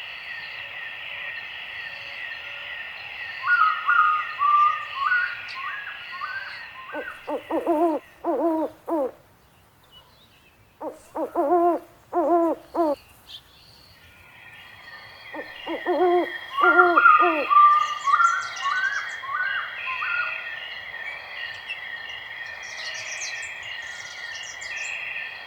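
Owl hooting in several short runs of calls, over a steady chorus of chirping insects that drops out for a few seconds in the middle.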